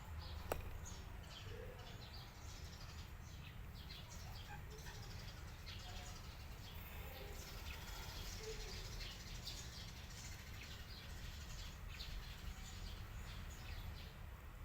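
Birds chirping in many short, high calls over a steady low hum, with a single sharp click about half a second in.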